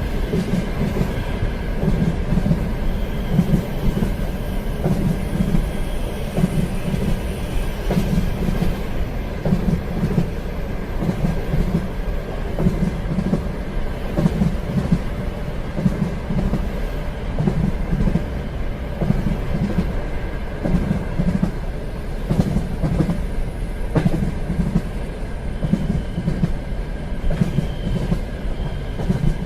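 Train running on rails: a steady rumble with a rhythmic clatter of wheels over rail joints about once a second, and a few sharp clicks.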